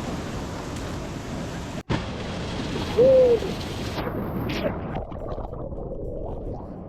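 Waterfall water pounding down in a steady rush, broken by a brief dropout just before 2 s. About 3 s in a voice gives one short, loud hoot that rises then falls in pitch. Around 4 s the sound changes abruptly to a quieter, duller rush.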